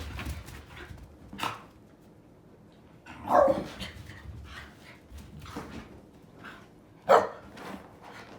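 Shiba Inu dogs barking in short, separate barks while play-fighting, four times, the second the loudest.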